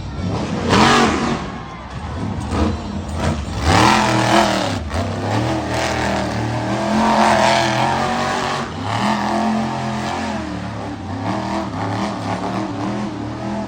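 Monster truck engine revving hard through a freestyle run, its pitch surging up and falling back again and again, with a steadier stretch at high revs past the middle.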